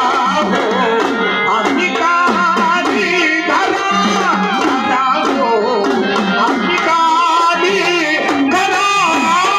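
Marathi folk kalgitura music: a dholki hand drum playing a steady rhythm with strokes that slide down in pitch, over a held low drone and a melody line.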